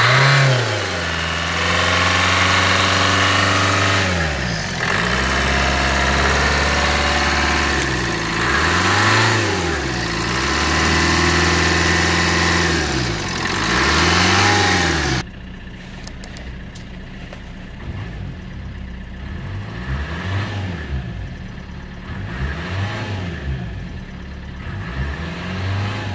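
Suzuki Swift's 1.3 DDiS four-cylinder turbo diesel running and being revved over and over, each rev rising and falling back. About fifteen seconds in, it turns suddenly quieter and muffled, heard from inside the car, as the revving goes on.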